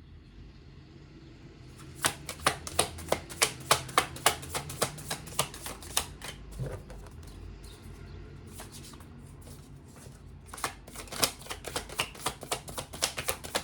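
A deck of tarot cards being shuffled by hand, with rapid crisp card clicks about three a second. It starts about two seconds in, thins out around the middle and picks up again near the end, as cards are shuffled to let more cards jump out.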